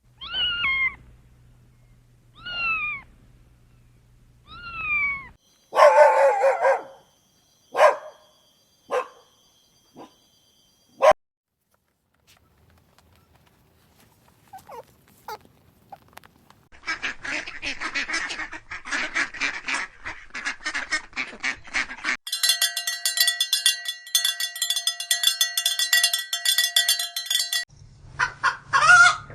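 A run of separate animal calls: three falling calls, then several short honking calls, later a stretch of rapid chatter and a steady buzzing tone near the end.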